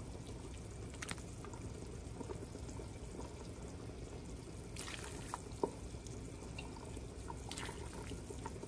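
Steady rain falling, an even hiss with a few faint clicks.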